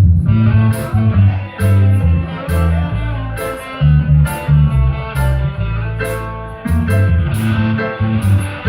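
Live band playing an instrumental number: electric guitar and bass guitar, with sharp hits about once a second.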